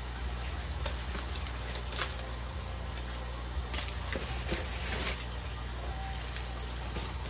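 Rustling and light plastic clicks from handling packaging and model train cars during unboxing, busiest in the middle, over a steady low electrical hum.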